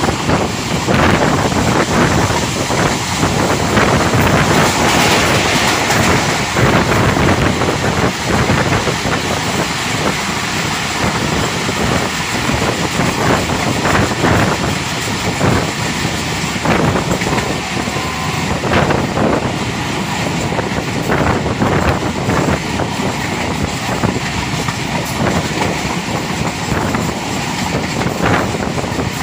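Passenger coaches of a moving express train running at speed: a steady loud rumble of wheels on rail with irregular clicks and knocks as they pass over rail joints.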